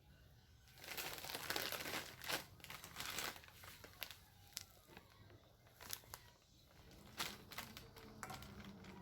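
Crinkling and rustling of material being handled, in a run of bursts from about a second in to three and a half seconds, then scattered light clicks and shorter rustles.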